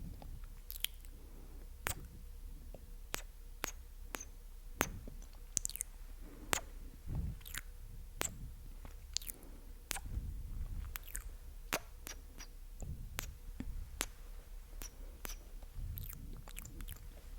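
Close-miked ASMR mouth sounds: wet, sticky clicks and smacks of lips and tongue, coming irregularly a few times a second.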